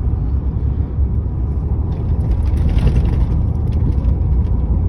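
Steady low rumble of a 2004 Chevy Z71 pickup's stock 5.3-litre V8 and its rather loud exhaust, mixed with road noise, heard from inside the cab while the truck is driven.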